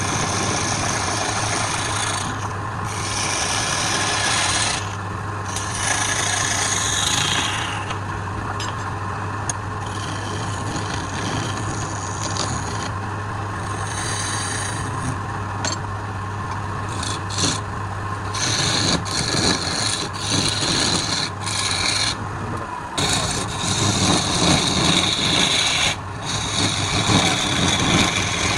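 Wood lathe running with a steady motor hum while a turning tool cuts and scrapes the spinning wood. The cutting noise comes and goes, and grows rougher and more uneven for the last ten seconds or so.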